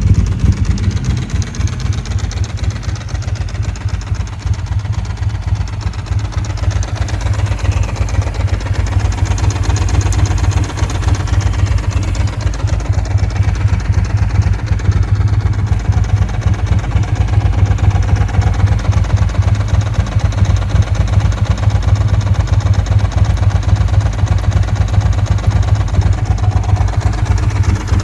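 Ducati 916's 90-degree V-twin engine idling after a cold start, a loud, steady, low-pitched rumble that eases slightly a few seconds in.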